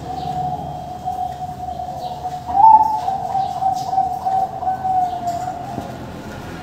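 Zebra doves (Bangkok perkutut) cooing, their coos overlapping into a continuous chorus, with one louder rising coo about two and a half seconds in. Faint high chirps sound over it.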